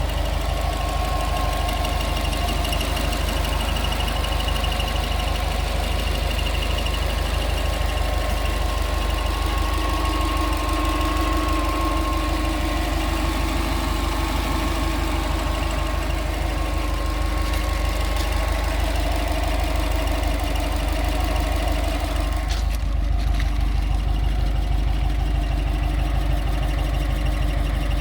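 Subaru Forester 2.5 XT's turbocharged flat-four engine idling steadily, with a rapid, even ticking noise running through it.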